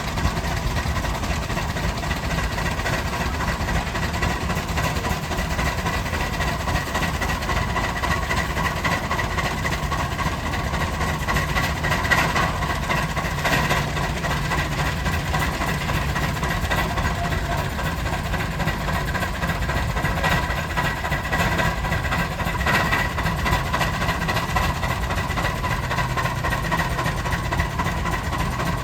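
A big Rumely steam traction engine running steadily as it pulls a plow through a field, with a continuous mechanical rumble and faint steady tones from its machinery.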